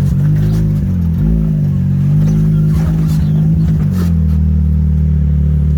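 Can-Am Maverick X3 side-by-side's turbocharged three-cylinder engine running at low revs with small throttle blips, and a few knocks and rattles about halfway through. After about four seconds the engine settles to a steady note.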